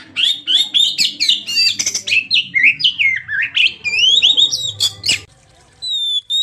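Oriental magpie-robin (kacer) singing a rapid, varied run of whistles mixed with harsh chattering notes. It breaks off about five seconds in, then starts again with clearer whistled notes near the end.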